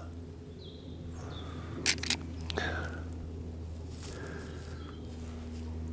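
Faint bird calls in woodland over a low steady hum, with two short clicks about two seconds in.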